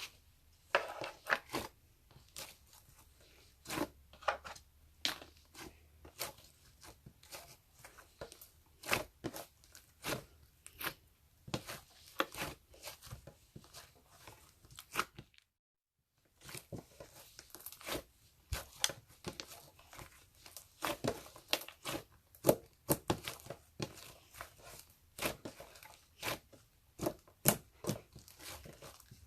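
Close crinkling and tearing of paper or plastic wrapping, a long run of irregular crackles handled by hand, cut off by a brief total silence about halfway through before it resumes.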